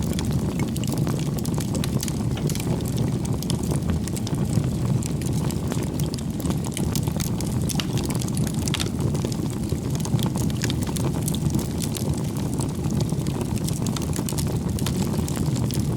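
Bonfire of firewood burning: a steady low rush of flames with many small, sharp crackles and pops from the burning wood.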